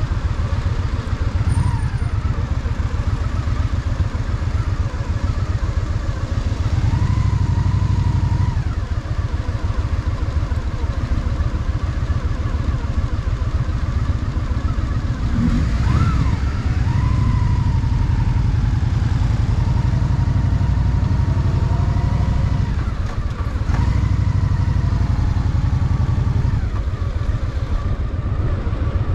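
Honda Shadow VT750's V-twin engine running under way, with a steady low beat that swells in several stretches as the throttle opens and eases between them.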